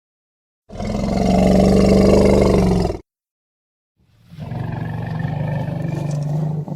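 Elephant calling twice: a loud call of about two seconds, then after a second's silence a second, slightly quieter call of about two and a half seconds that cuts off sharply.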